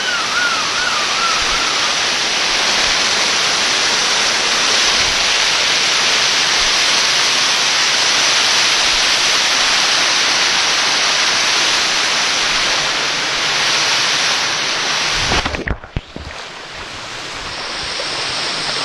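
Waterfall: a loud, steady rush of falling water. About three-quarters of the way through it drops out abruptly for a moment, then returns quieter and builds back up.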